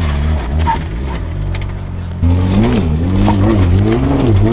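2004 Audi Allroad's 2.7-litre twin-turbo V6 revving hard under load as the car climbs a rock slab with its wheels spinning and throwing dust. The engine pitch rises and falls unsteadily and gets louder about two seconds in.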